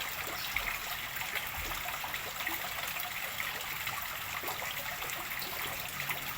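Water running and trickling steadily into a fish pond as it is refilled after cleaning, a continuous splashing hiss.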